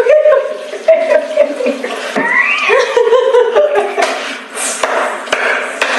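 Women laughing and squealing, their voices sliding up and down, over a steady hiss of spraying water.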